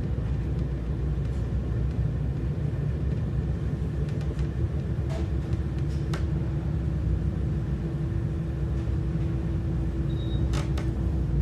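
Doğu Ekspresi passenger train running, a steady low rumble with a few sharp clicks. A faint steady hum sets in about halfway through.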